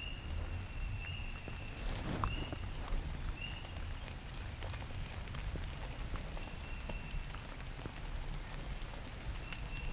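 Steady rain falling, with many small drops pattering and a low rumble underneath. A thin, high tone comes and goes briefly several times.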